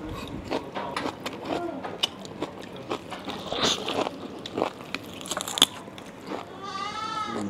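Close-up eating of roast lamb: biting, tearing and chewing the meat, with many small mouth clicks and a sharp snap about five and a half seconds in. A short voice sounds in the background near the end.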